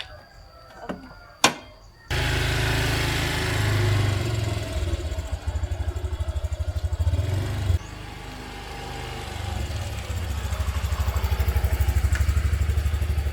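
Small vehicle engine running close to the microphone, with a heavy low drone and a rapid even pulsing. It starts abruptly about two seconds in, after a single sharp click, and changes character sharply near the eight-second mark.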